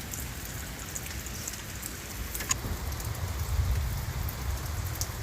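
Rain falling: a steady patter with scattered drop clicks over a low rumble.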